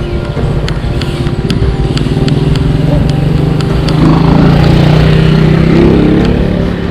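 A vehicle engine hums steadily and grows louder, loudest from about four seconds in, then eases near the end. A few scattered sharp clicks sound over it.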